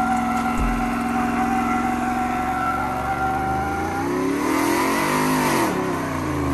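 Truck engine revving, the pitch climbing and falling back over a couple of seconds in the second half, with a steady high tone over the first half.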